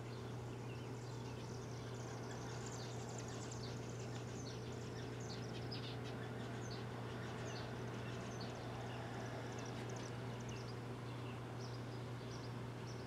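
Small birds chirping in quick, scattered bursts over a steady low hum.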